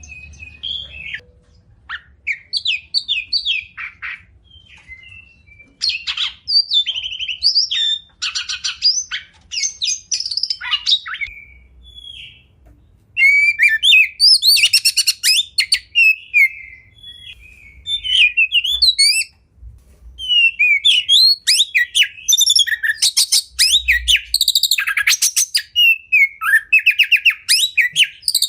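Oriental magpie-robin singing a varied song of whistled, gliding phrases and fast runs of repeated notes, in bursts with short pauses between them. The rapid trills become denser and louder in the second half.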